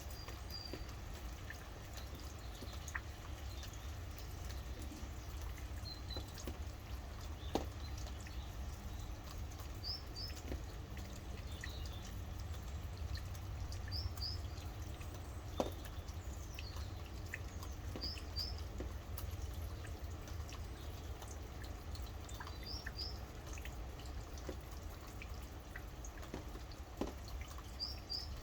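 Steady rain with drops falling and dripping, a few sharp louder drips scattered through it. A bird repeats a short high double chirp about every four seconds.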